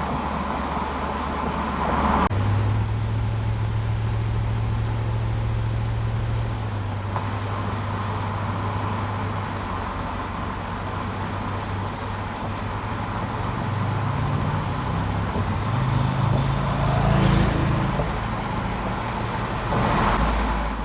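2001 Jaguar XK8's 4.0-litre AJ27 V8 exhaust heard from on board while driving, over steady road noise. The engine note jumps up about two seconds in, holds steady, climbs gradually later on, then drops near the end.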